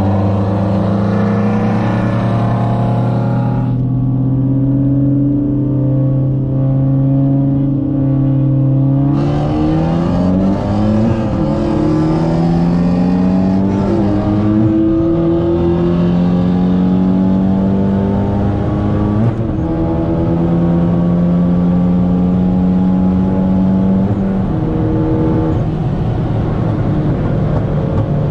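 Ford Focus ST's turbocharged 2.0-litre four-cylinder, fitted with a big Garrett GTX2867R turbo, heard from inside the cabin pulling hard under acceleration. The engine note climbs slowly and drops at several upshifts in the second half.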